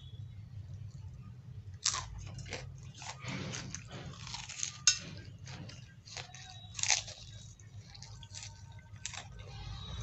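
Close-up mouth sounds of a man biting and chewing a fried samosa and raw green chillies: irregular crunches and chewing, the sharpest crunch about five seconds in, over a low steady hum.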